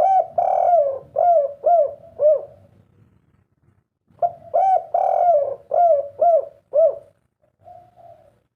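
Spotted dove (tekukur) singing its 'kuk 3' song twice: each phrase is a long, loud coo followed by three short coos. A faint single coo follows near the end.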